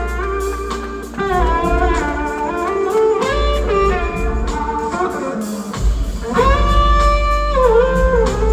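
Live blues-rock band playing an instrumental passage: a lead electric guitar holds long notes and glides between pitches over bass and drums.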